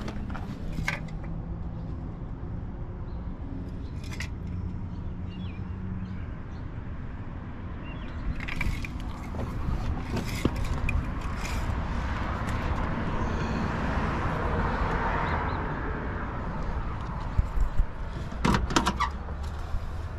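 Scattered clicks and knocks over a steady low hum, with a noisy swell in the middle and a cluster of knocks near the end.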